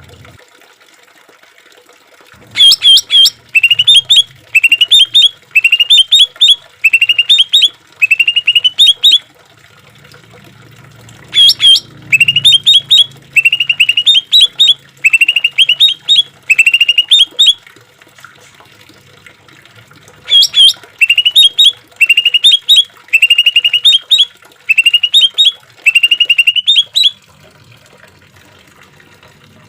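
Cucak ijo (greater green leafbird) singing in three bouts of a repeated phrase: each bout opens with a sharp high note, then about seven short rising, rippling trills, with a couple of seconds of pause between bouts. A faint trickle of water runs underneath.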